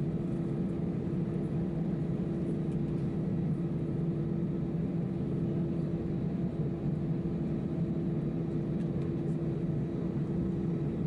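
Steady cabin noise inside an Airbus A319-111 with its CFM56 engines running: an even low hum and rumble with one constant tone held throughout.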